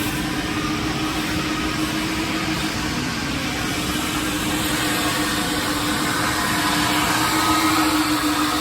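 Coin-operated car-wash vacuum running steadily on its timed cycle: a constant rush of air with a steady hum under it.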